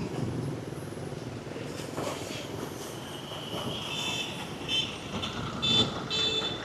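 Street background noise with a steady low rumble of traffic. From about four seconds in there is a series of short, high-pitched beeps.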